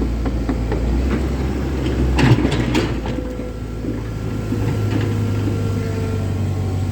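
Komatsu 130 excavator's diesel engine running steadily, with a short burst of metallic clanks a little over two seconds in and a faint falling whine afterwards.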